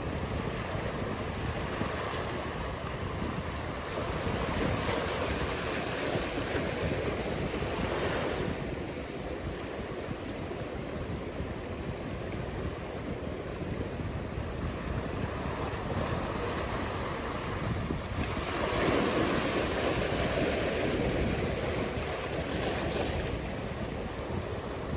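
Ocean surf: a steady wash of breaking waves that swells louder several times, most strongly about eighteen to twenty-one seconds in, with wind noise over it.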